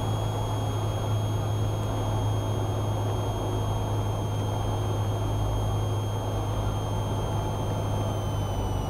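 Cessna 172R's four-cylinder Lycoming engine and propeller droning steadily at cruise in the pattern, with a thin high whine over the drone that slides slightly lower in pitch near the end.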